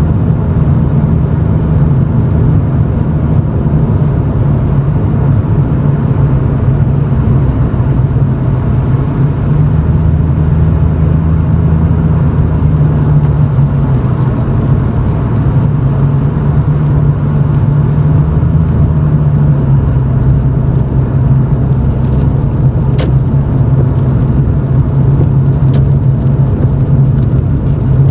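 Toyota Chaser GX100's 2.0-litre straight-six exhaust, through an aftermarket Reinhard cannonball muffler with a mid-pipe and silencer fitted, droning in the cabin at low driving speed. The low drone holds steady, its pitch drifting gently up and down, with a couple of faint ticks near the end.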